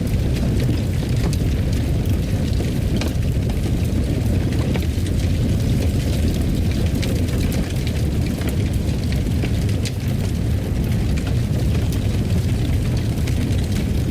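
Wood fire in a fireplace burning, a steady low rumble with frequent small crackles and pops.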